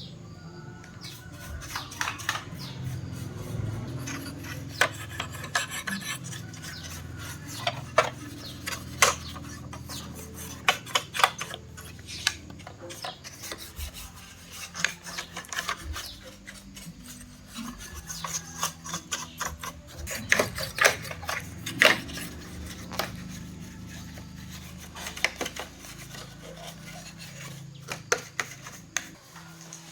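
Irregular clicks, taps and scraping of hands working with tools and parts, over a low steady hum.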